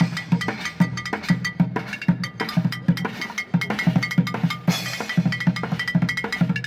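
A street drummer playing a fast, dense rhythm on drums, with rapid sharp strikes over repeated low hits and a cymbal crash at the start and again about two-thirds of the way through.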